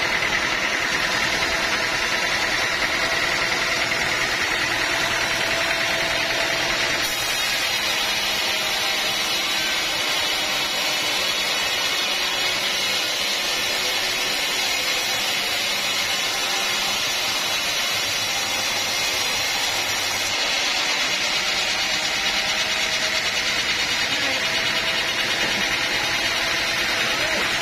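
A sawmill running with a steady mechanical noise, its tone shifting about seven seconds in and again about twenty seconds in.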